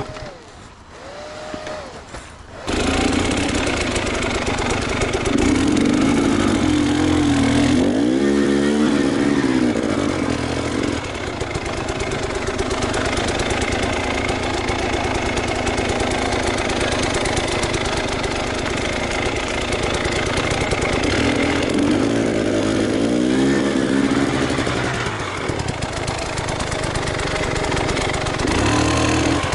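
Enduro motorcycle engine running and revving up and down under load. It is quieter for the first two seconds or so, then comes in loud, with two clear swells in pitch partway through.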